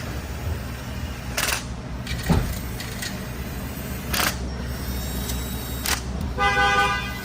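Scattered clicks and knocks of hand tools on the valve body bolts of a GM automatic transmission as they are tightened, over a steady low hum. Near the end comes a brief horn-like tone.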